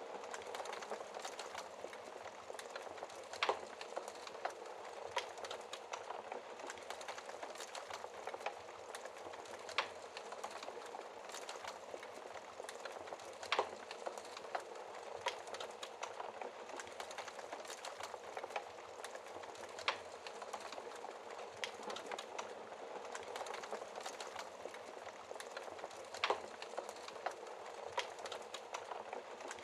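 Wood fire crackling, with frequent small pops and about five sharper snaps spread through, over a steady hiss of rain.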